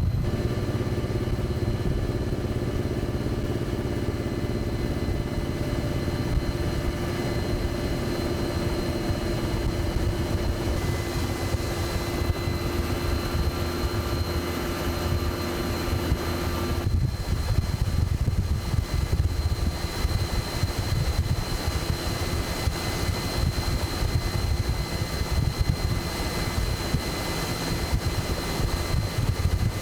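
Helicopter running close by: a fast, fluttering rotor beat with a steady high turbine whine over it. The sound breaks off and resumes about halfway through.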